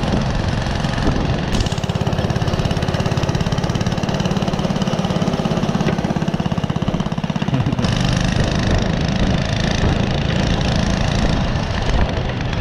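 Small engine running under throttle as the vehicle drives along. It carries a fast, even pulse through the middle seconds.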